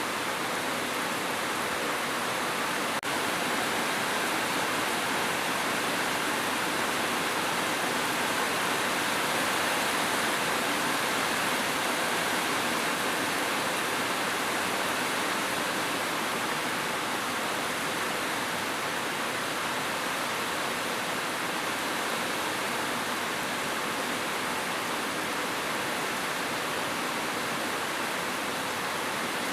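Steady heavy rainfall: a continuous, even hiss with no individual drops standing out. There is a brief click about three seconds in.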